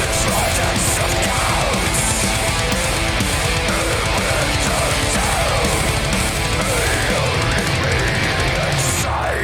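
Moody melodic death-doom metal song playing loud: heavily distorted electric guitars and drums in a dense, steady wall of sound.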